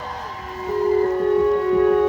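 A live band's held note, one steady pitch with many overtones that slides down a little just before half a second in, then holds and swells.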